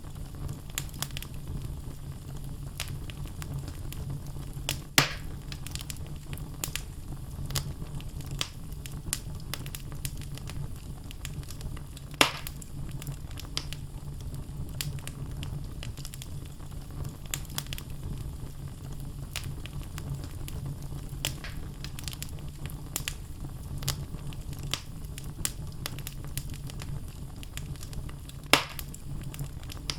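Wood logs burning in a fireplace, crackling steadily with many small snaps over a low steady hum. Three louder pops stand out: about five seconds in, about twelve seconds in, and near the end.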